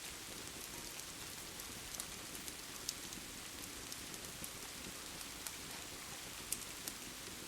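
Steady rain falling, an even hiss, with scattered sharp crackles and pops from a fireplace fire, a few a second.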